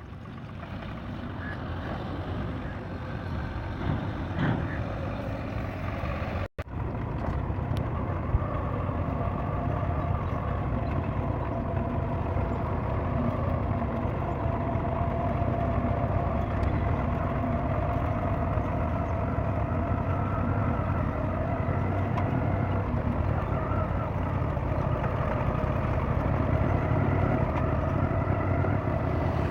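Ford 3000 tractor engine running steadily, its sound growing louder over the first several seconds and then holding even, with a momentary break about six seconds in.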